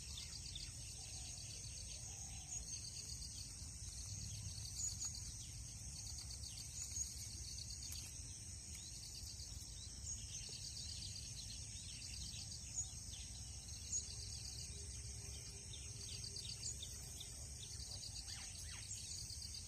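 Insects chirping: a steady high drone with short pulsed chirp trains repeating every second or two, a few bird calls among them, over a low rumble.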